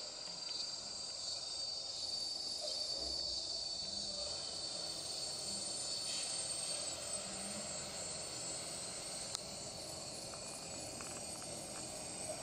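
A steady chorus of insects chirring, made of several high continuous tones, over faint background noise.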